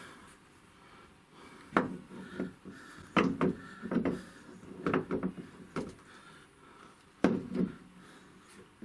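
A series of sharp knocks and short rattling clunks, about seven in all, as a wheelchair's rear wheel is worked onto its axle: its bearing is not going onto the bushing.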